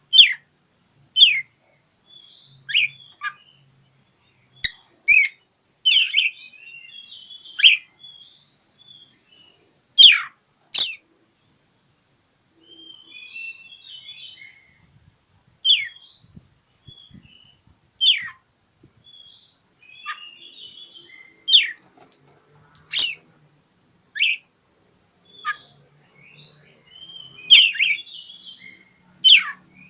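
Oriental magpie-robin (kacer) singing a challenge song: loud, sharp whistled notes that sweep downward, one every second or two, with soft twittering chatter between them.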